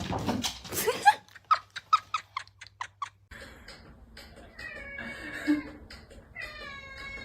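Cat vocalising: a quick run of short, high calls in the first three seconds, then drawn-out meows, the last one long and falling in pitch.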